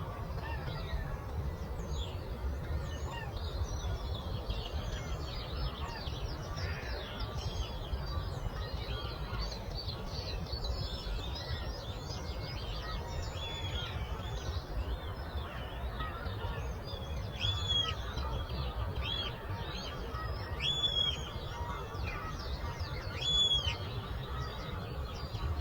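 Many small birds chirping and singing together in a morning chorus. In the second half one bird repeats a louder arched call about four times. A steady low rumble runs underneath.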